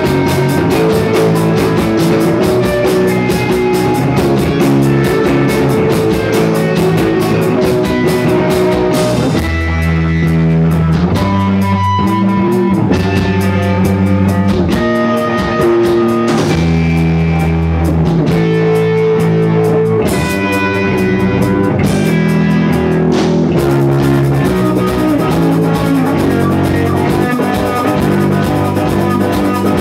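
Rock music with guitar and drum kit playing continuously. The cymbals and drums thin out for a few seconds about ten seconds in and again about twenty seconds in.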